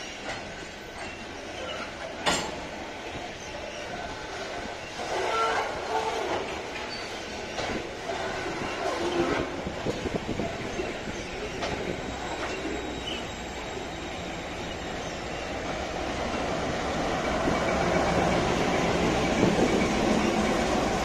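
Freight train of covered hopper cars rolling past, with wheels clacking over rail joints, scattered knocks and a brief wheel squeal. Over the last few seconds a deeper diesel locomotive rumble builds as the locomotive comes alongside.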